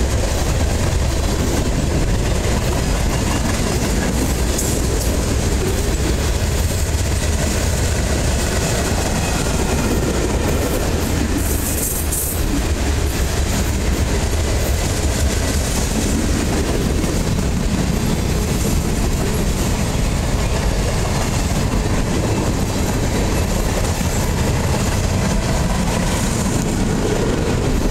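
Freight train cars (boxcars, covered hoppers and flatcars) rolling steadily past: a continuous rumble and clatter of steel wheels on the rails.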